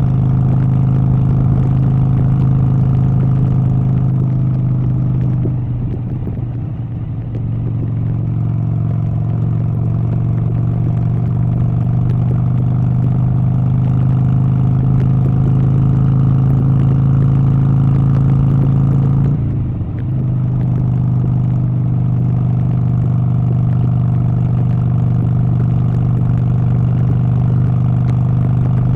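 An engine running steadily with a strong, even hum, dipping briefly twice: about six seconds in and again around twenty seconds.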